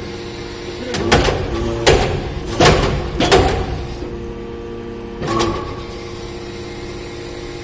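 Hydraulic baling or briquetting press working aluminium turnings: a steady machine hum with five loud knocks, four close together in the first few seconds and one more a couple of seconds later.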